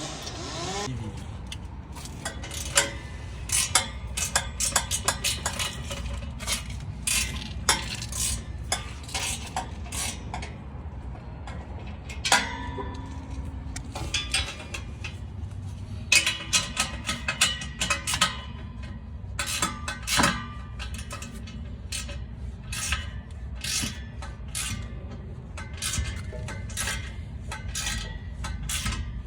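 Metal exhaust piping and fittings clinking and clanking as the sections are handled and fitted together: irregular sharp knocks, some several a second, over a steady low hum.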